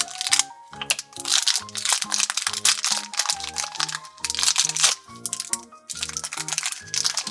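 Crinkling of a plastic wrapper as a small toy surprise is unwrapped by hand, over light background music with a steady beat.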